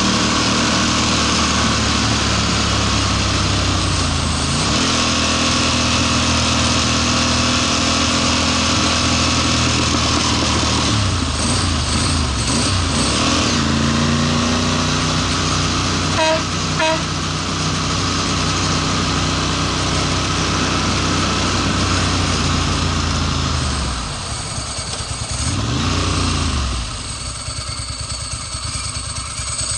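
Ducati Monster S4's L-twin engine running while the bike is ridden, over wind noise, its pitch shifting as it changes speed. Two short beeps come about halfway through. Near the end the engine note drops, rises briefly, then settles lower and quieter.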